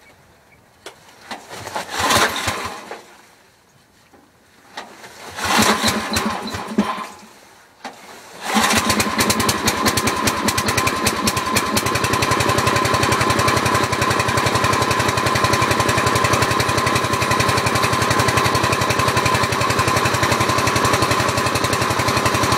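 Cold 8 hp Briggs & Stratton single-cylinder engine of a 1968 Sears Suburban garden tractor cranked over sluggishly in two bursts against thick cold oil. It catches about eight and a half seconds in and runs steadily from then on.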